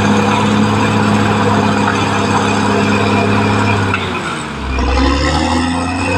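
Caterpillar D6R XL bulldozer's diesel engine running steadily; about four seconds in its pitch drops for a second or so, then rises again.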